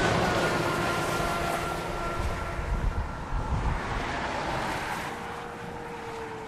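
Steady engine and road noise from a passing vehicle, with a few faint tones sliding slowly down in pitch, and wind gusting on the microphone about two to three seconds in.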